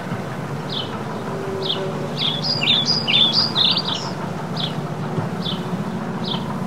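Birds singing: short, high chirps repeated roughly once a second, with a quicker run of notes from about two to four seconds in. A low, steady rumble sits underneath.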